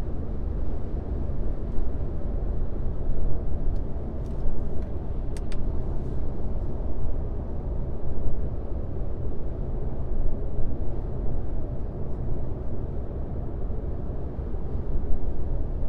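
Car driving on a highway: a steady low rumble of tyre and engine noise.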